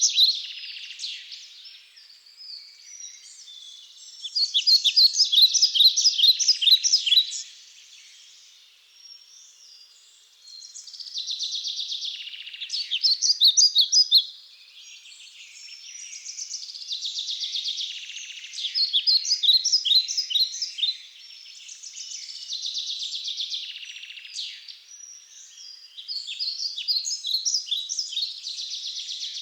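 Songbirds singing: phrases of rapid high chirping notes, each lasting two to three seconds, coming every few seconds with short gaps between.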